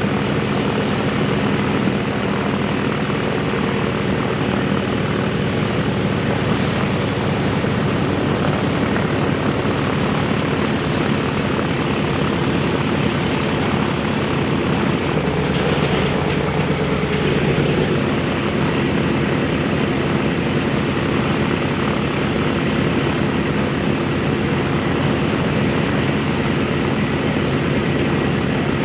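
Wright R-1820 Cyclone radial piston engines of a B-17 Flying Fortress running steadily with propellers turning, a loud unbroken drone whose tone shifts briefly about halfway through.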